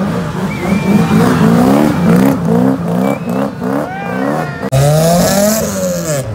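Modified car engines revved hard in quick blips, the pitch jumping up and dropping about three times a second. About three-quarters of the way in, a cut brings a single longer rev that rises and falls.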